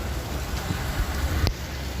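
Low, steady rumble of vehicle engines mixed with the hiss of drizzling rain, with one short click about one and a half seconds in.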